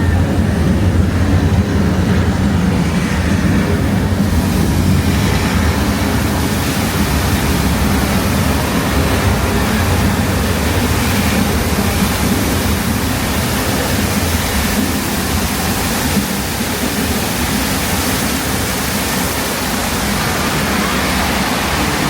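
Studio tour tram running: a steady low rumble with a rushing hiss that grows from about four seconds in.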